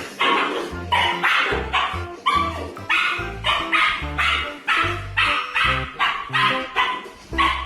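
Dog barks repeated about twice a second in time with music, over a bass line that changes note.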